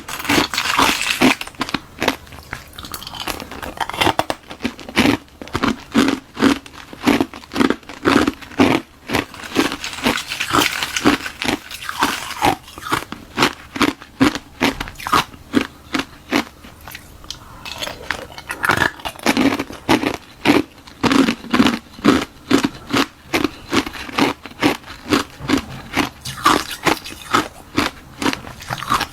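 Close-up crunching and chewing of ice: a hollow ice shell frozen in a balloon and filled with frozen milk tea, bitten and chewed in quick sharp crunches, a few a second.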